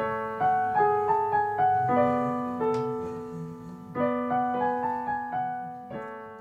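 Background music: a solo piano playing a slow melody, each note struck and left to ring out.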